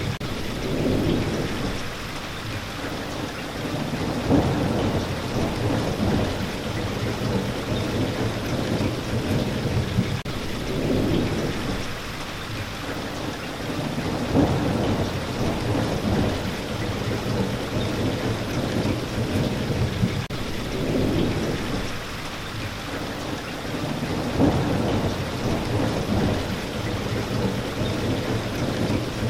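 Steady heavy rain with low rolling thunder rumbles that swell and fade every few seconds.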